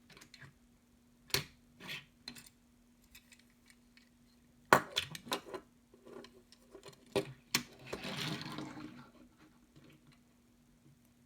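Light clicks and clacks of die-cast toy cars being handled and set down on a hard surface, a sharp knock near the middle, with a brief rustling scrape about eight seconds in.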